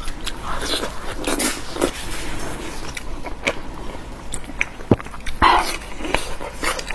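Close-up eating: irregular biting and wet chewing, with many small clicks and smacks.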